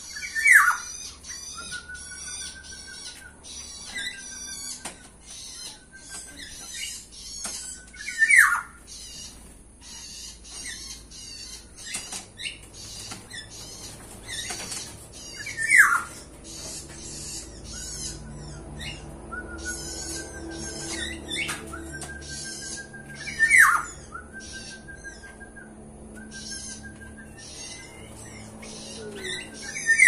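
Birds calling: a loud falling call repeats about every seven to eight seconds, over steady high chirping and short runs of evenly spaced notes.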